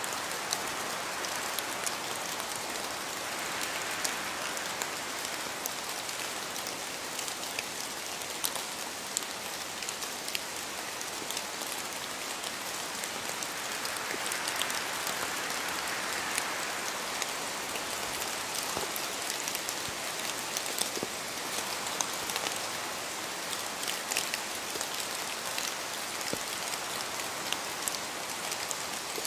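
Steady rain falling, an even hiss with many small, sharp drop taps on a hard surface.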